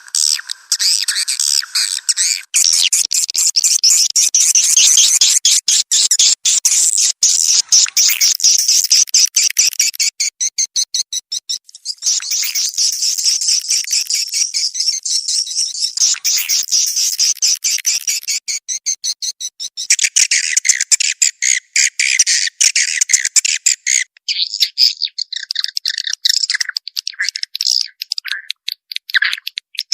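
Swiftlet calls played as a lure recording: dense, rapid, high twittering and clicking chirps, switching abruptly to a different call pattern every few seconds.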